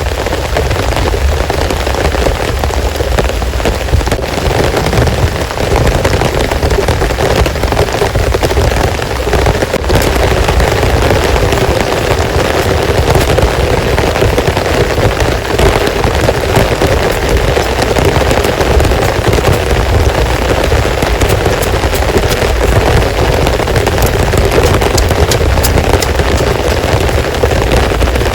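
Heavy rain falling steadily and loudly, a dense patter of drops striking close by.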